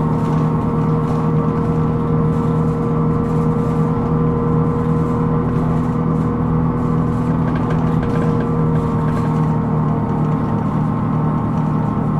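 Cabin sound of a Hino Rainbow II diesel city bus under way: steady running noise carrying a ringing, even hum of several fixed tones, the abnormal noise (異音) that this bus is recorded for.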